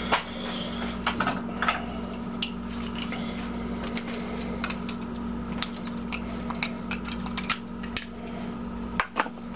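Light irregular clicks and taps from a metal cook pot sitting on a lit alcohol stove, over a steady background hum.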